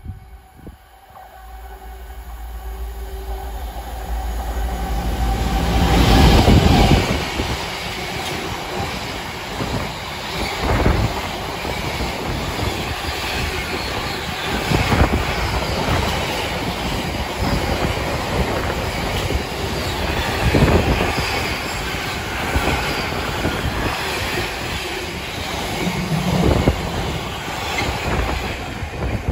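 Container freight train approaching and passing at speed on the near track. The noise builds to its loudest about six seconds in as the head of the train goes by, then settles into a steady rumble and clatter of wagon wheels on the rails, with a few heavier thumps.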